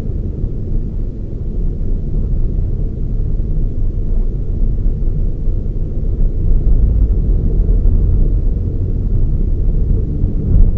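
Toyota Raize GR small SUV on the move: a steady, loud low rumble of engine and road noise.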